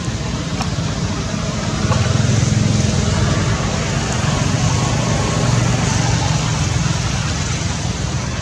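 Steady low rumbling noise with a hiss over it, a little louder from about two seconds in.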